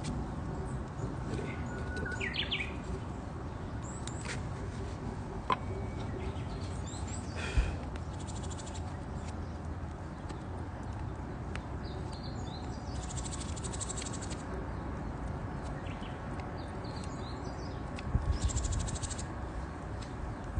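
Wood fire crackling with a few sharp pops, while small birds chirp and trill in the background. A short cluster of low knocks near the end.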